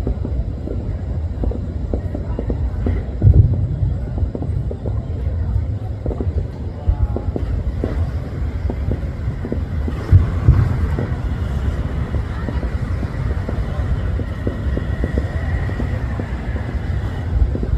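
Distant fireworks display heard as a low rumble of booms, with two heavier thumps about three and ten seconds in, under wind buffeting the microphone.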